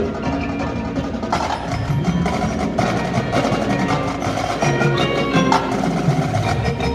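Marching band playing a percussion-heavy passage: frequent sharp strikes over sustained pitched notes.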